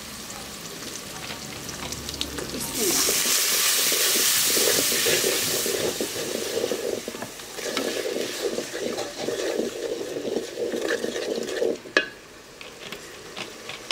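Poa fish and ridge gourd curry frying in an aluminium pot: a loud sizzle from about three seconds in as liquid goes into the hot pan, then a wooden spatula stirring and scraping through the curry. Near the end there is a single sharp knock, louder than anything else.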